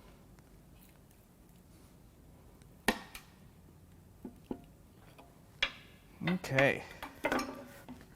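Sharp metallic knocks and clinks of hand tools on a BMW S52 engine as the stuck cylinder head is worked loose after its head bolts are out. One hard knock comes about three seconds in, then lighter clicks and a cluster of clinks near the end.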